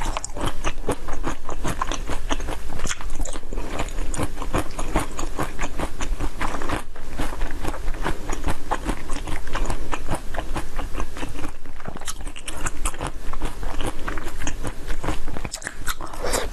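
Close-miked eating of jelly cubes: biting and chewing, a dense stream of wet clicks and crunches.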